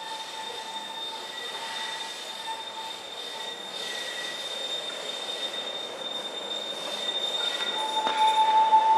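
Tramway du Mont Blanc rack-railway train approaching with a steady high-pitched squeal over track noise. The squeal grows louder near the end.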